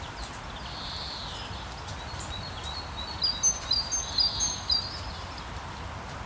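Birds chirping over a steady background hiss, with a quick run of high, short chirps from about three to five seconds in.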